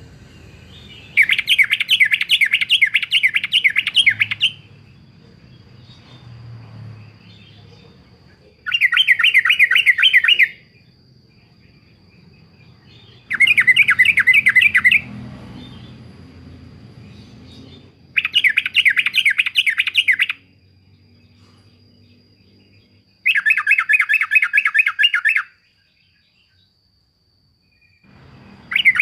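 Yellow-vented bulbul singing: five loud phrases of fast, repeated chattering notes, each lasting two to three seconds, with pauses of a few seconds between them.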